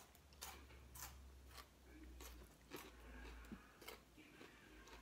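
Faint chewing and wet mouth clicks from people eating: a handful of short smacks roughly half a second to a second apart.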